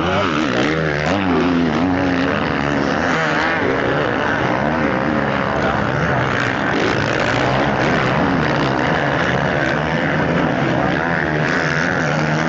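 Several motocross bike engines revving at once, loud and continuous, their pitch swinging up and down as the throttle is worked.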